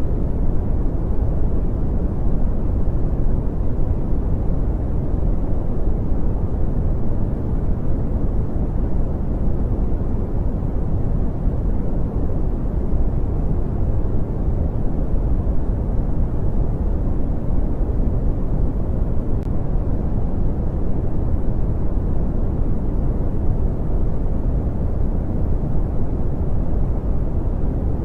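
Brown noise: a steady, deep rushing hiss with most of its weight in the bass, fading off toward the treble, unchanging throughout.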